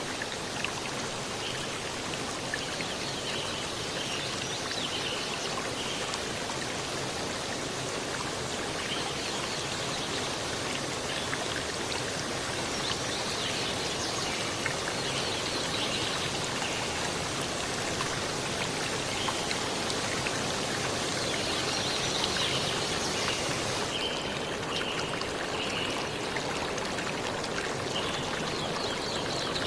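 Steady rain, a continuous even rushing of water, with faint high chirps now and then. About 24 seconds in, the hiss turns duller as its highest part drops away.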